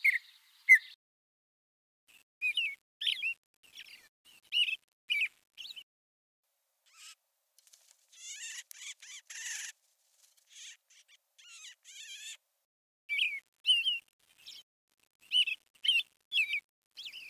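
Small birds chirping: short high chirps in irregular bunches, with a harsher, buzzier stretch around the middle.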